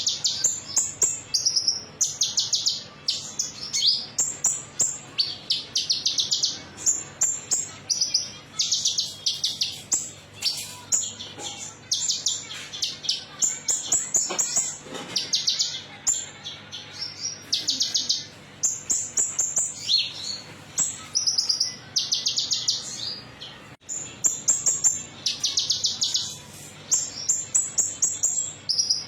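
Konin songbird singing its metallic-toned song: high, fast trilled phrases of rapidly repeated notes, each lasting under a second, following one another with short gaps. This is a lure (pancingan) recording, played to prompt caged birds to sing.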